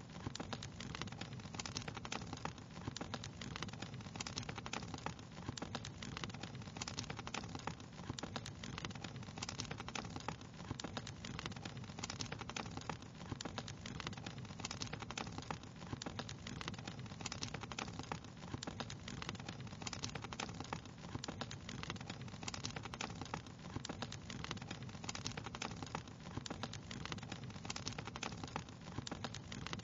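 Wood fire crackling steadily, with dense small pops and snaps over a low rumble of flames.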